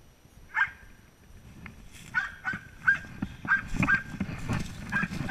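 Belgian Malinois whining and yipping in short high-pitched calls, one about half a second in and then a quick run of them from about two seconds, over scuffling as it moves about on the hidden helper. It is an excited search dog at the find, being asked for its bark alert ('speak') and not yet barking.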